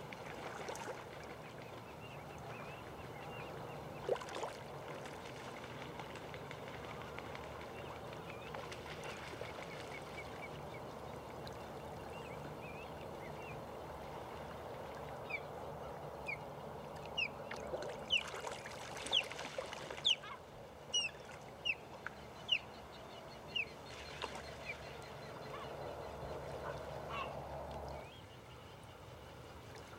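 Birds calling, a run of short sharp calls about twice a second in the middle of the stretch, over a steady outdoor background that drops in level near the end.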